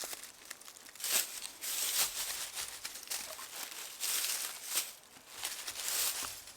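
Irregular crinkling and rustling with scattered sharp clicks, something crumpled or handled by hand.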